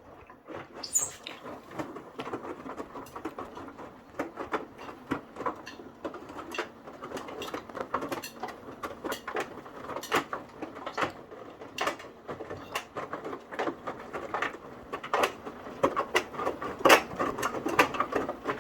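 Indesit 9 kg washing machine, top and back covers off, mid wash cycle with the drum turning the load: an irregular patter of sloshing water and tumbling laundry with sharp clicks and knocks throughout, growing louder near the end.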